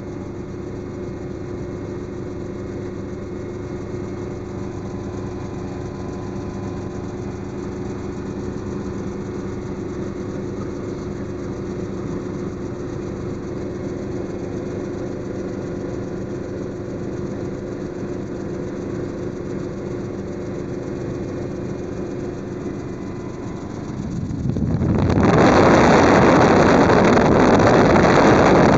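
Helicopter engine and rotors running steadily, a constant hum with a set of held tones. In the last few seconds a loud rush of wind noise rises and covers it.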